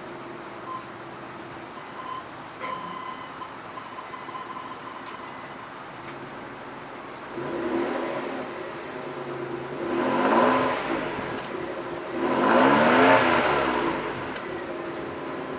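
The 1993 Nissan Cedric GT's 3.0-litre V6 idling steadily, then revved three times, each rev rising in pitch and falling back. The third rev is the loudest.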